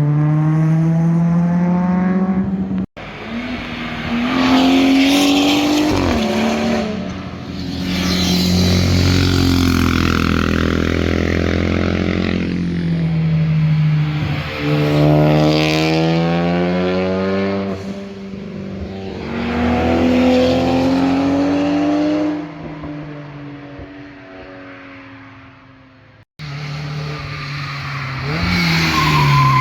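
Performance cars driven hard past one after another, engines revving up through the gears with pitch climbing and dropping at each shift, loud as they pass and fading away. The sound breaks off abruptly about three seconds in and again near the end.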